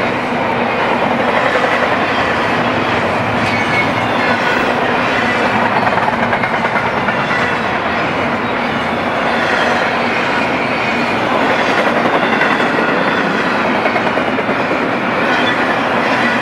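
Double-stack intermodal train's loaded well cars rolling past, steel wheels on rail making a steady, loud rolling noise with clickety-clack.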